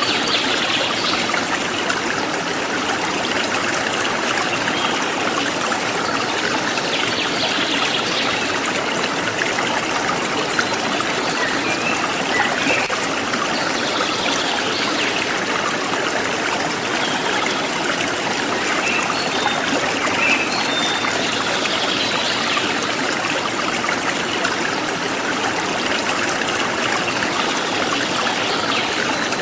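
Forest stream flowing steadily, a constant rushing and trickling of water, with occasional faint short bird chirps above it.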